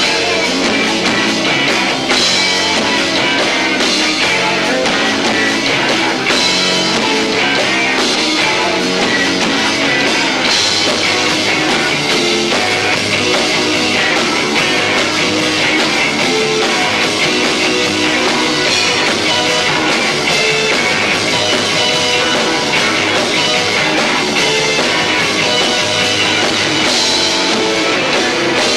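Live rock band playing loud with electric guitar, bass and drum kit, heard as a distorted, low-fidelity camcorder recording.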